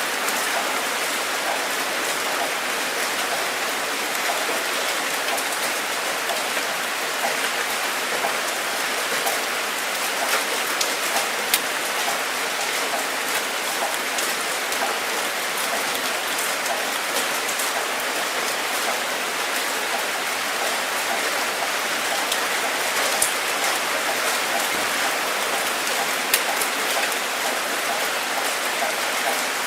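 Steady rainfall, an even hiss of rain with scattered sharper drop ticks and a few louder single drops.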